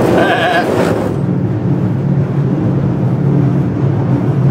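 Alaska Railroad passenger train running, loud rumbling rail noise for about the first second, then a steady low hum inside the rail coach.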